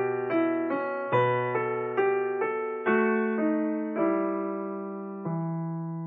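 Background music: a piano playing a gentle melody, notes struck about two or three times a second that slow down after about three seconds, ending on a long note that is left to ring and fade.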